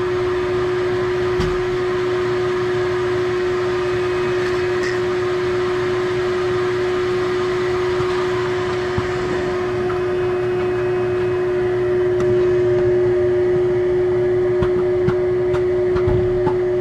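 Vacuum motor running steadily with a constant hum while drawing on a thin tube put down an engine's dipstick pipe to suck out the oil. Little or nothing is coming up: the narrow tube holds no suction. A few faint ticks near the end.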